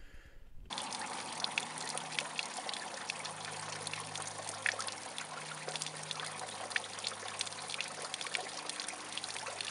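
Spring water pouring from a pipe set in a rock face: a steady, splashing stream that starts just under a second in.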